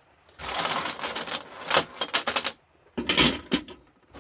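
Loose scrap metal parts clattering and rattling as they are handled, in a long bout of quick knocks lasting about two seconds and a shorter bout near the end.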